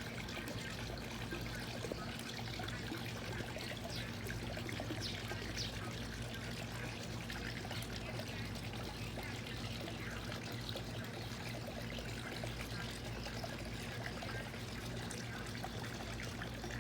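Steady trickling, pouring water sound, with a few faint, brief high chirps from small birds scattered through it.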